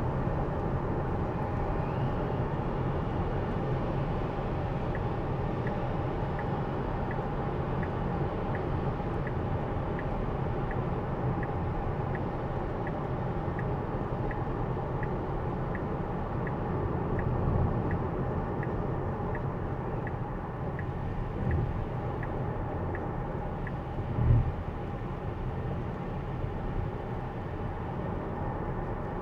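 Steady tyre and wet-road noise inside a Tesla driving in the rain. A turn signal ticks evenly, about three ticks every two seconds, for much of the time, and a few low thumps come through later on.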